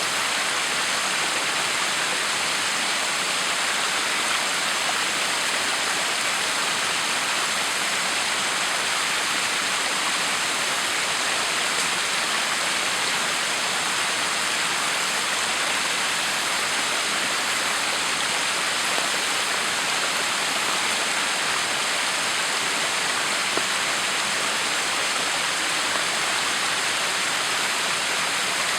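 Water pouring over a backyard waterfall: a steady, unbroken rush of falling and splashing water.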